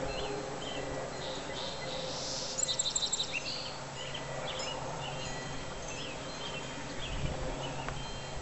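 Songbirds chirping again and again, with a short rapid high trill about two and a half seconds in, over a steady low hum.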